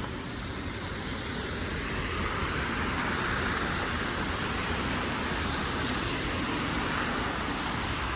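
Road traffic: a car passing, its tyre noise swelling over the middle seconds and easing off near the end, over a steady low rumble.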